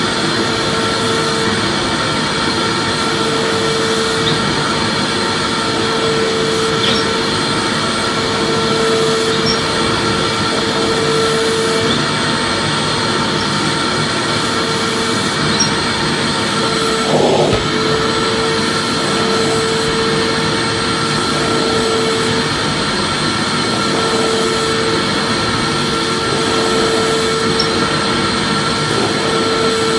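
Vacuum cleaner running continuously: a steady whooshing rush with a motor whine. A low hum in it swells and fades every few seconds, and there is a brief knock a little past halfway.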